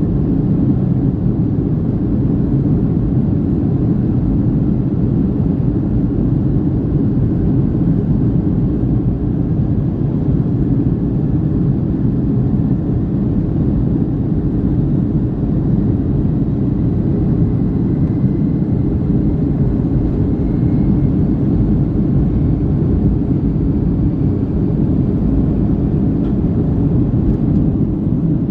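Steady low rumble of engine and airflow noise inside the passenger cabin of a Boeing 757-300 in flight, unchanging throughout.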